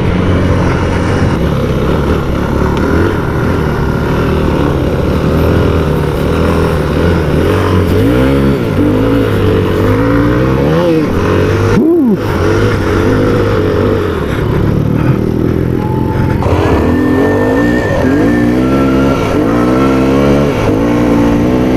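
2013 Yamaha WR250F's single-cylinder four-stroke engine revving up and down repeatedly as the bike is ridden hard, pulling strongly through the gears, with a sharp momentary break in the throttle about twelve seconds in.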